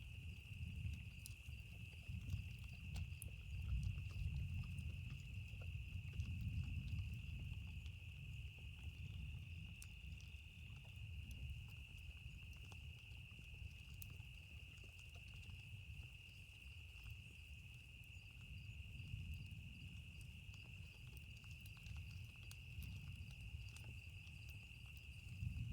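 Campfire crackling with sparse, sharp pops over a low rumble that swells and eases, with a steady high drone of insects.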